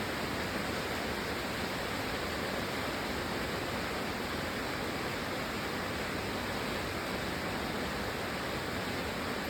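Rain falling steadily: an even hiss with no single drops standing out.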